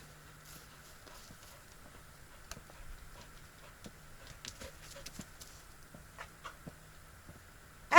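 Faint footsteps on the forest floor: irregular soft crunches and small clicks.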